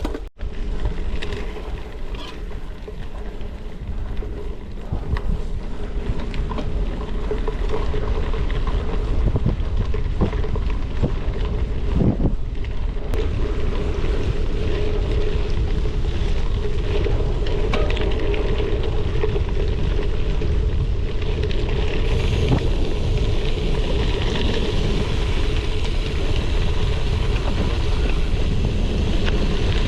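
Gravel bike riding over a gravel trail: tyre rumble and frame rattles mixed with wind rushing over the GoPro's microphone, with a steady hum underneath. It gets louder after the first several seconds.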